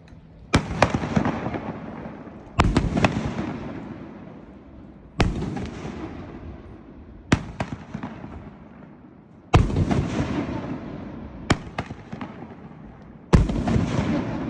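A 500-gram consumer firework cake firing shot after shot. About five loud bangs come a few seconds apart, each followed by a long fading rush of noise, with a few sharp single cracks in between.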